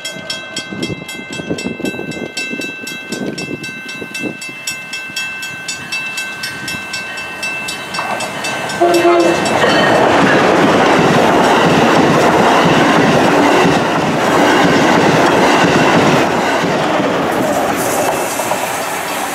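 A railroad grade-crossing bell rings steadily. About nine seconds in, an Amtrak Acela Express trainset arrives with a brief horn note and passes at speed, a loud rush of wheels on rail for several seconds that falls off near the end.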